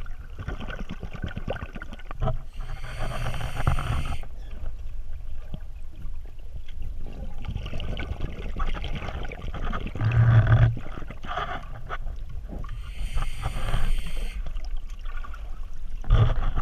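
Water of a small river flowing, a continuous rushing noise under an uneven low rumble, with brighter hissing stretches twice.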